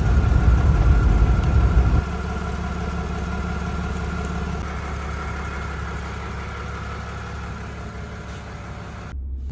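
Truck engine running at low revs, steady. The sound drops suddenly about two seconds in and then grows gradually fainter, before a brief cut-out near the end.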